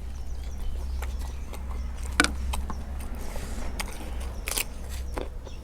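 Scattered sharp clicks and knocks over a steady low rumble, the loudest knocks about two seconds in and again near the end.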